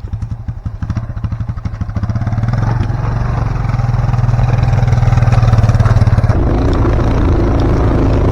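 Kawasaki ATV engine running, its regular firing beat speeding up and getting louder about two seconds in, then holding steady, with a shift in its sound about six seconds in.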